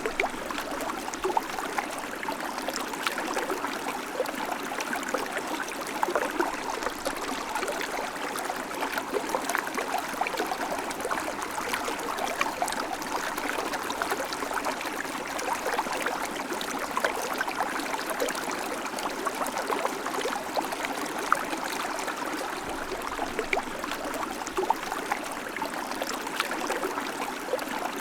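River water flowing steadily over stones, a continuous rush dotted with small splashes and gurgles.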